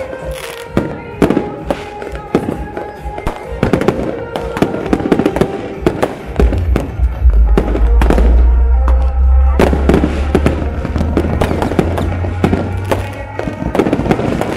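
Fireworks display bursting overhead: a dense run of bangs, pops and crackles, over music. A deep rumble sets in about halfway through and is the loudest part until shortly before the end.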